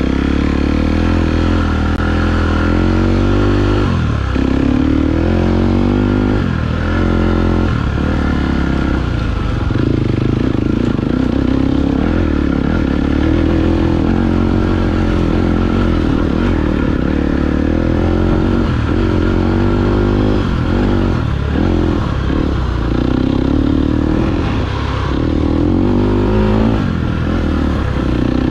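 KTM 250 EXC-F four-stroke single-cylinder engine being ridden, its pitch rising and falling again and again as the throttle is opened and closed, with short drops in between.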